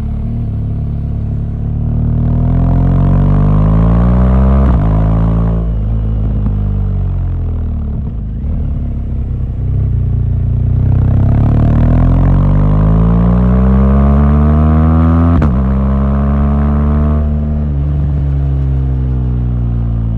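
BMW R1200GS motorcycle's 1170 cc boxer-twin engine pulling hard, its note climbing as it accelerates, with upshifts about five seconds in and again near fifteen seconds, and the revs easing off in between.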